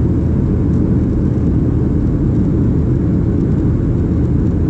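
Steady low rumble of a Boeing 737-700 in flight, the noise of its CFM56-7B jet engines and rushing air while climbing out after takeoff.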